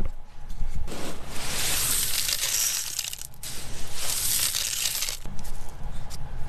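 Grain sample rattling and hissing in two stretches of a few seconds each as it is handled in a grain moisture tester, over a steady low rumble.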